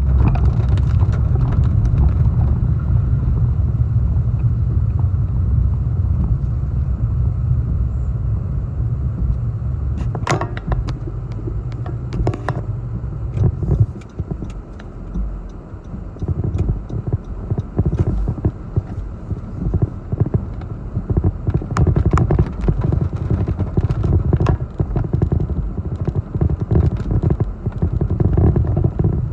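Strong, gusty storm wind buffeting the microphone as a loud low rumble, dropping off about halfway through and then returning in uneven gusts, with scattered sharp knocks and rattles.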